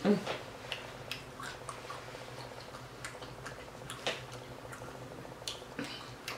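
A person chewing food close to the microphone: soft, irregular wet mouth clicks and smacks, with a louder smack right at the start and another about four seconds in.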